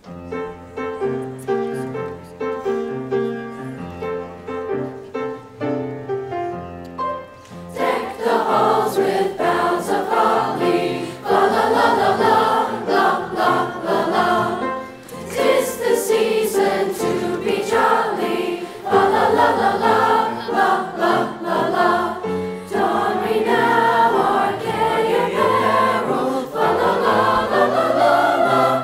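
An instrumental introduction of stepped, sustained notes, then a chorus singing a Christmas piece with accompaniment from about eight seconds in.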